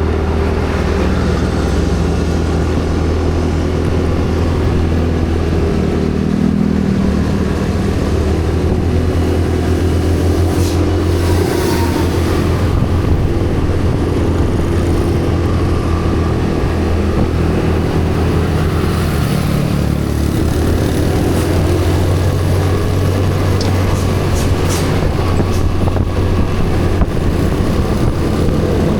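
A vehicle engine running steadily with a low hum and road noise, its pitch shifting a little. There are two brief high hissing spells, about 11 seconds in and near the end.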